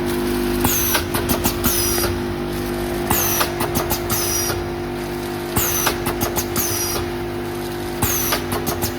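Vertical form-fill-seal packaging machine with a measuring-cup filler, bagging salt into back-sealed bags. It runs with a steady hum and repeats its cycle about every two seconds, each cycle bringing a quick run of clicks and a high falling hiss.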